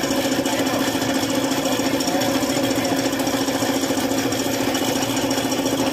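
Suzuki F6A three-cylinder engine running steadily with a fast, even rattle.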